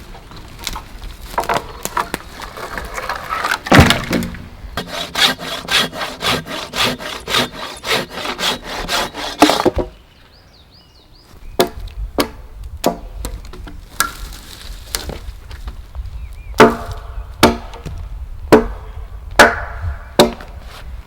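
Hand saw cutting through wood in quick, even strokes that stop about halfway through. After a short pause comes a series of separate sharp knocks of wood being struck.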